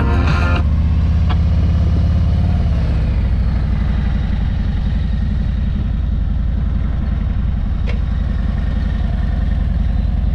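Motorcycle engine running low and steady, its pitch easing down over the first few seconds and then holding.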